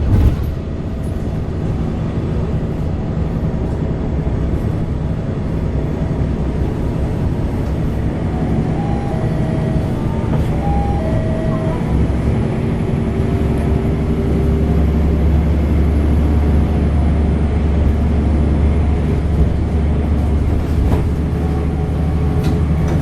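Zyle Daewoo NEW BS090 bus's Euro 6 diesel engine running, a steady low drone that grows heavier from about the middle and eases again near the end.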